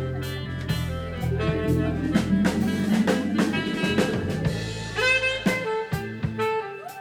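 Live band playing an instrumental jazz jam: a drum kit keeps a steady beat under a bass line and sustained melodic lines.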